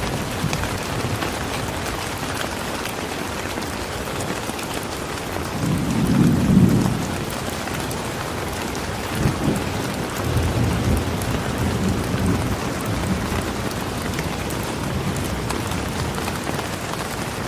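Steady rainfall hissing, with low rumbles of thunder swelling about six seconds in and again around ten to twelve seconds.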